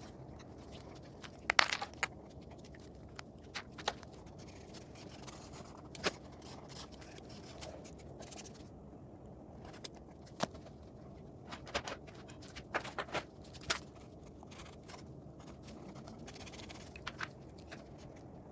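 Colouring a drawing by hand: scattered light clicks and taps of drawing tools being picked up, set down and handled on a table, with a few quick clusters of clicks, over a faint steady background hiss.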